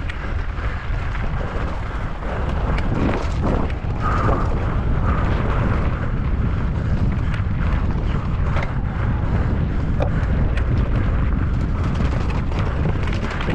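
Wind roaring over the microphone as a mountain bike descends at speed, with frequent small rattles and knocks from the bike over rough ground.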